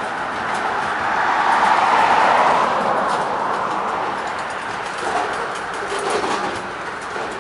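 Freight train of covered hopper cars rolling past close by: a steady rumble and rattle of steel wheels on the rails, loudest about two seconds in, with a few sharp clacks around five and six seconds in.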